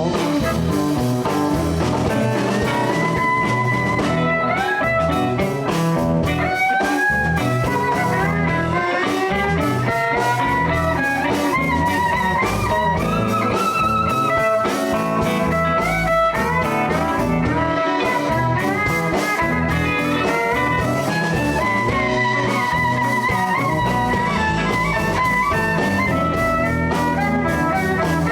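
Live blues band playing an instrumental break: drums, bass and rhythm guitar keep a steady groove while a lead line of sliding, bent notes carries the melody.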